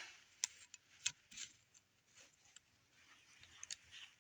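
Faint scattered clicks and ticks of small Lego plastic parts being handled, about half a dozen light taps over the few seconds.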